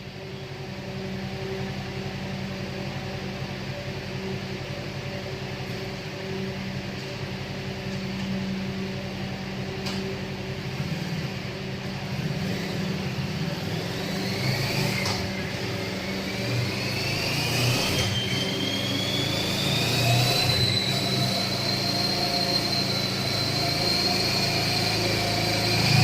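Kawasaki Ninja 650's parallel-twin engine running on a chassis dyno through its stock exhaust, steady at first and then slowly building. From about halfway a high whine rises in pitch and then holds steady as the rear wheel spins the roller faster.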